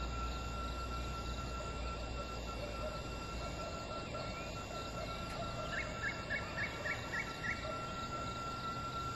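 Outdoor predawn ambience: a steady high insect drone, and in the middle a bird calling a quick run of about seven chirps, a little over four a second.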